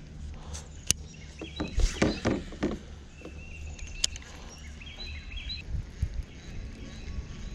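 Kayak paddling: a cluster of paddle splashes and knocks against the hull about two seconds in, with a couple of single sharp clicks, over a steady low rumble. Short bird chirps come and go in the middle.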